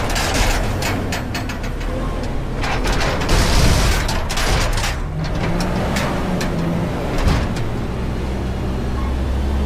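Front-load garbage truck working a recycling container: a run of metal clanks and rattles with a dense rushing clatter about three and a half seconds in, then the truck's engine speeds up and holds a higher, steady pitch.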